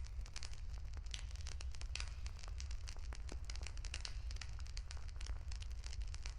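Wood campfire crackling, with many quick sharp pops and snaps over a steady low rumble.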